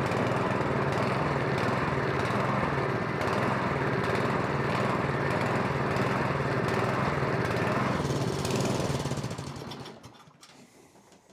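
Snowblower's small single-cylinder gasoline engine running steadily on partial choke while starving for fuel, a sign of a plugged pilot jet in the carburetor, then winding down and stopping about eight seconds in.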